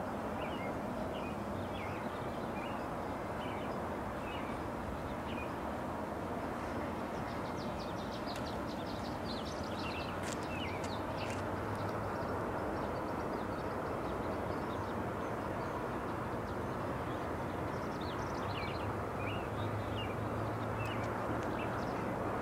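Short bird chirps coming and going in scattered runs, thickest in the middle and again near the end, over a steady rushing background noise.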